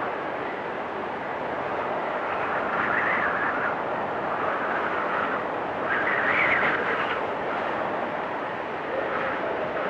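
Storm wind blowing hard and steadily, swelling into higher whistling gusts about three seconds in and again around six to seven seconds.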